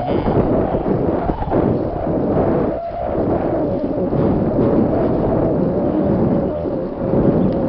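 Wind buffeting a helmet-mounted camera's microphone while cycling at speed: a loud, continuous rumble with a faint, wavering whine running through it.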